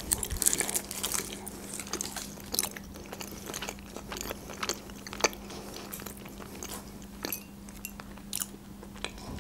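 A person chewing with the mouth closed, with scattered sharp mouth clicks and smacks at irregular intervals.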